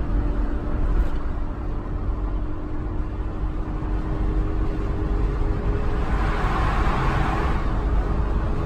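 Car driving on a highway, heard from inside the cabin: a steady low rumble of tyres and engine with a faint steady hum, and a swell of hiss that rises and fades about six to eight seconds in.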